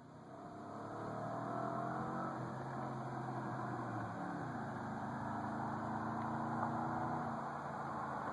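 2007 Chevrolet Silverado 1500 running through a custom exhaust. The exhaust note swells over the first second, then holds steady, with a change in pitch about four seconds in.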